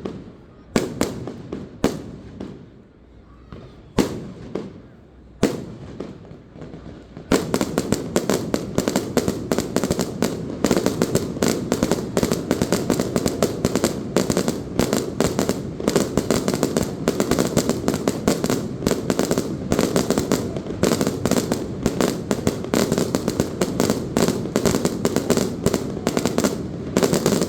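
Aerial fireworks going off: a few separate bangs spaced a second or two apart, then about seven seconds in a dense barrage of rapid bangs and crackling that continues without a break.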